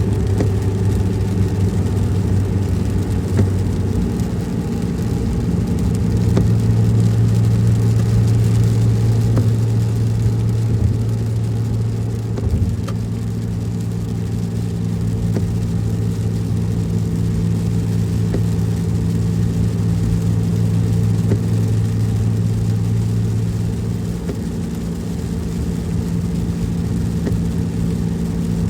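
Car engine hum and road rumble heard from inside the moving car. The engine note shifts a little about six seconds in and again near the end, as the car's speed changes.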